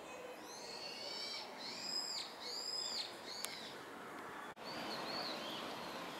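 A bird calling: a run of high chirping notes, then two louder arched calls that rise and fall in pitch, about two and three seconds in, with fainter calls near the end.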